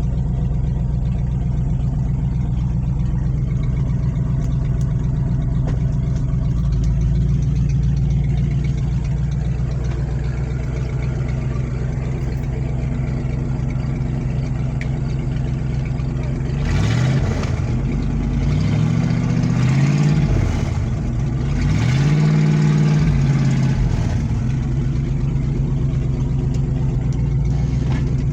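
1994 Ford one-ton truck engine idling steadily, then revved up and down several times about two-thirds of the way through before settling back to idle.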